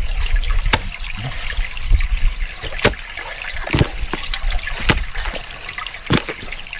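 Water trickling steadily through a small forest stream, with a shovel knocking and scraping into the soil several times as the bank of an earth dam is dug and patched.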